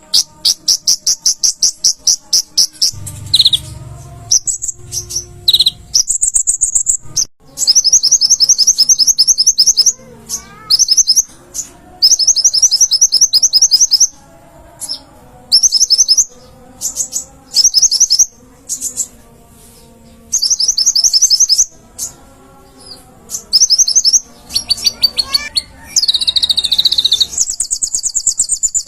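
Kolibri ninja (konin), a small sunbird, singing: loud, high-pitched trills of rapidly repeated notes in bursts of one to two seconds with short pauses between, and a few quick falling notes.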